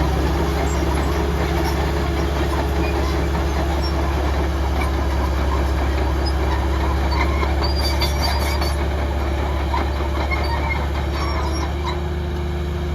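Heavy diesel earthmoving machinery running steadily with a deep drone, with scattered small metallic clicks and squeaks over it.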